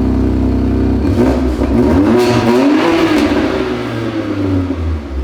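BMW M2 Competition's twin-turbo straight-six running through a newly fitted Active Autowerke aftermarket exhaust. It idles, then about a second in is revved once, the pitch climbing for a couple of seconds and falling back toward idle near the end. It is much louder than the stock exhaust.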